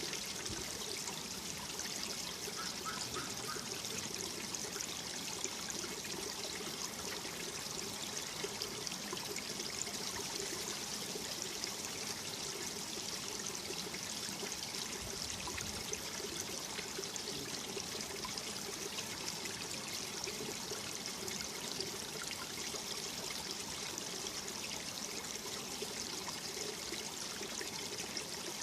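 Mountain valley stream flowing over rocks: a steady, unbroken splashing and gurgling of running water.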